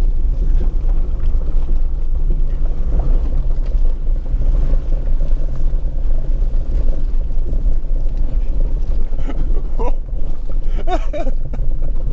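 Jeep WJ Grand Cherokee being driven off-road in two-wheel drive: a steady low rumble of engine and drivetrain. A few brief vocal sounds come near the end.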